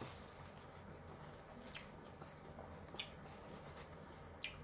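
A person chewing food, with three short, soft mouth clicks spread through.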